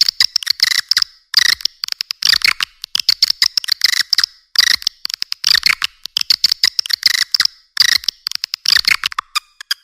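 Swiftlet calling sound, the recorded lure played to draw swiftlets into a nesting house: bursts of rapid, high chirping twitters, each under a second long, following one after another with quick clicks between them.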